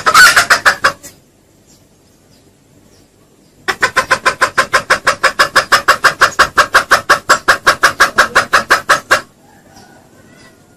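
Junglefowl clucking in rapid, evenly spaced series: a short quick run in the first second, then after a pause a long run of about seven clucks a second lasting some five seconds.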